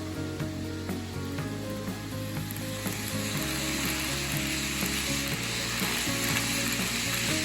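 Model train running on layout track: a rapid patter of wheel clicks over rail joints with mechanical gear noise. About three seconds in, a louder hiss builds as the train comes close.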